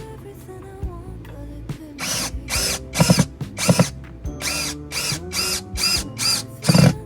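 A small motorised tool, like a drill, run in about a dozen short bursts that start about two seconds in, each one spinning up and back down, over quiet background music.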